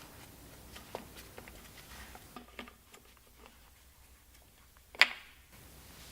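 Handling of the vacuum attachment for a Hilti DD150U diamond core drill: scattered light clicks and knocks, with one sharp click about five seconds in.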